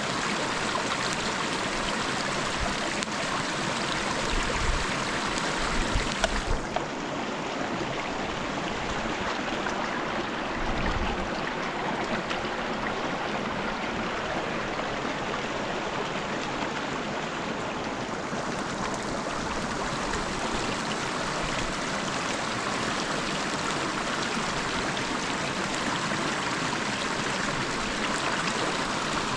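A river's flowing water, a steady rushing, with a few brief low bumps about five seconds and eleven seconds in.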